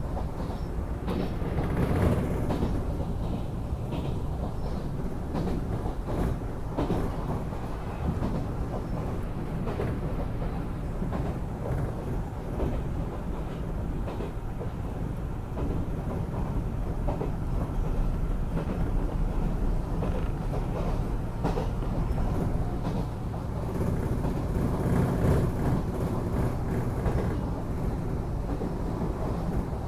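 Enshu Railway electric train running, a steady low rumble with the wheels clicking now and then over rail joints, heard from inside the car.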